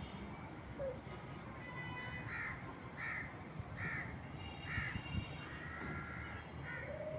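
Crows cawing, a run of short harsh calls about one a second, over a low background rumble.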